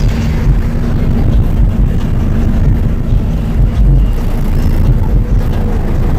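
Loud, steady low rumble of a truck's engine running.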